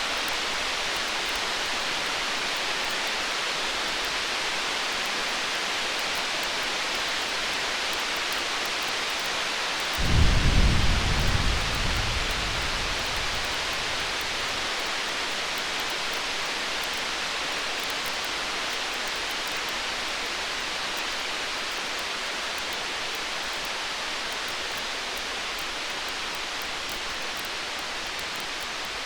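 Distant thunder: a single low rumble rolls in about ten seconds in, peaks briefly and fades over a few seconds. Under it runs a steady hiss with faint crackles from a burning fire.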